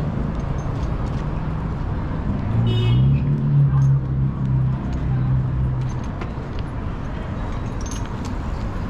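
City street traffic: a steady low rumble, with a vehicle's engine droning low for a few seconds in the middle as it passes.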